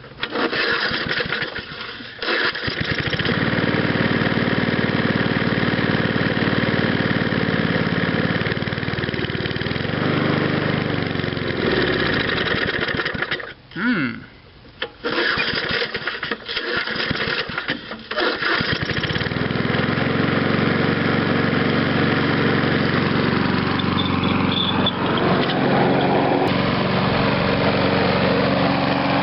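Old 3 hp Briggs & Stratton engine on a Snapper Hi-Vac lawn mower, cold-started after sitting for 15 years, catching and running. About halfway through it drops out and winds down, then catches again, sputtering for a few seconds before it settles into a steady run.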